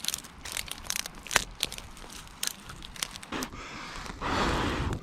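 Wood campfire crackling, with many sharp pops scattered through. Near the end a louder rushing noise lasts most of a second.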